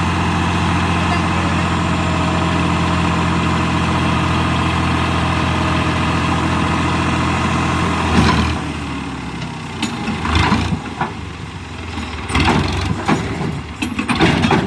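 Tractor engine running steadily at idle. About eight seconds in, it drops away and is followed by irregular short noises.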